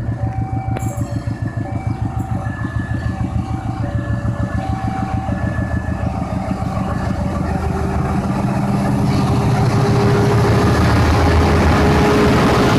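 Diesel-electric locomotive engine running with a rhythmic low throb, growing louder from about eight seconds in as the train comes closer. A repeating electronic signal of short alternating tones sounds over it in the first half.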